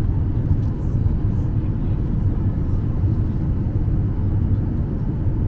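Boeing 737-800's CFM56 jet engines running, a steady low rumble heard from inside the passenger cabin.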